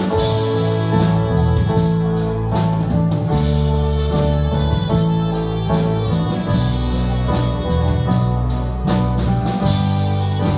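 Live instrumental worship music played by a church band, with held low notes under a steady beat.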